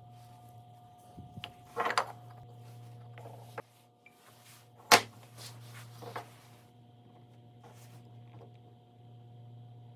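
A handful of short knocks and clacks of objects being handled and set down, the loudest about five seconds in, over a steady low hum.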